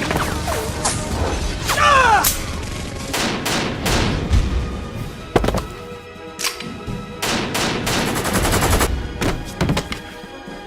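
Action-cartoon gunfire sound effects: single shots and a rapid machine-gun burst, with a cluster of falling sweeps about two seconds in, over background music.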